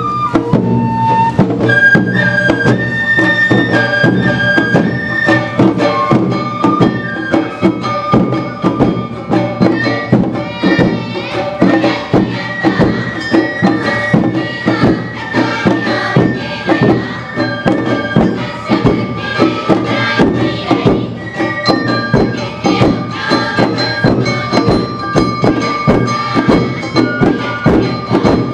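Awa Odori narimono music played live: bamboo flutes holding a high melody over a steady, driving beat of drums and a struck metal gong.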